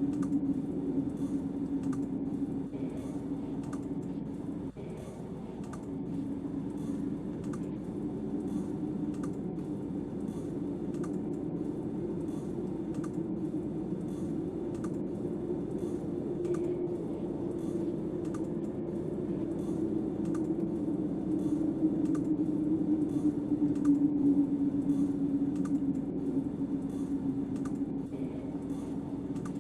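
Snowstorm wind howling steadily, drifting slightly in pitch, with light clicks about twice a second.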